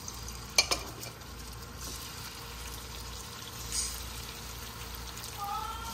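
Marinated chicken pieces frying in hot oil in a nonstick pan: a steady sizzle that swells briefly as more pieces go in, with two sharp clicks a little over half a second in.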